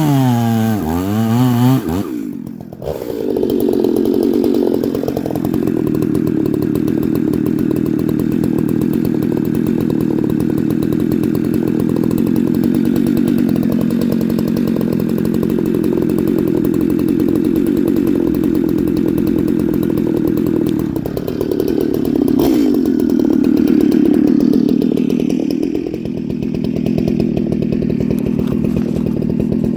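Stihl 440/046 two-stroke chainsaw with a ported cylinder and a custom tuned-port exhaust, running hard. Its note warbles at first, then after a short dip about two seconds in it holds a steady high rev. It sags about two-thirds of the way through and climbs back near the end.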